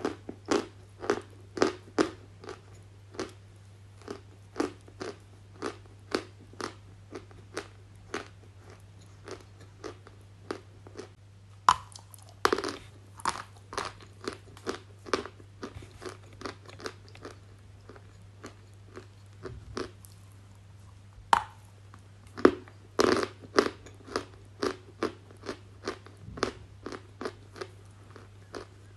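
Close-miked ASMR crunching: sharp, brittle bites and chews of something crunchy, about one to two a second, with a few louder bites along the way.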